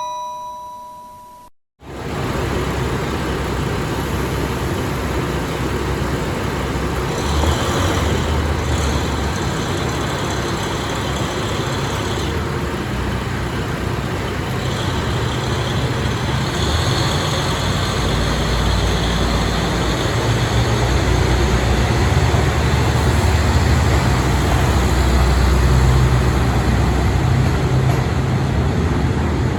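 A station chime fades out over the first two seconds. Then the DML30 diesel engine of a KiHa 182 express railcar runs under power as the train pulls away, a low engine drone growing gradually louder.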